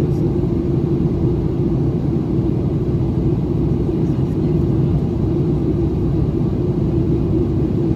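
Steady cabin noise inside a Boeing 737-800 on its approach: a low, even rumble of its CFM56-7B engines and rushing airflow.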